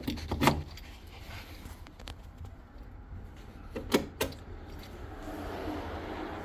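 Sharp mechanical clicks from working the key and switches of a Caterham 7 620S, two quick clicks near the start and two more about four seconds in, then a faint steady hum from about five seconds in. The engine does not start.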